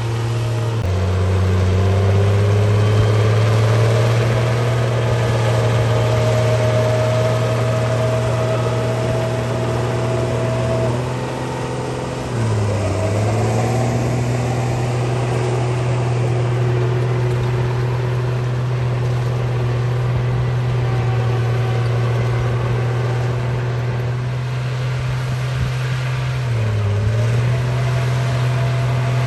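Bulldozer running steadily with a low, even engine hum. The pitch dips briefly twice, about 12 seconds in and again near the end, as the machine takes load.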